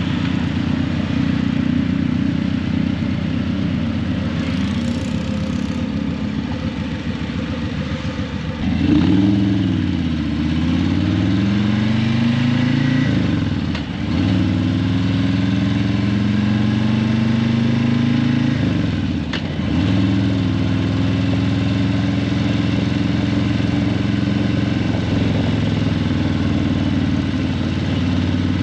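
Harley-Davidson Breakout 117's Milwaukee-Eight 117 V-twin, breathing through Vance & Hines Eliminator 300 slip-on mufflers, loping along at low revs. About a third of the way in it opens up and accelerates through the gears, dipping briefly at two shifts, then settles into a steady cruise.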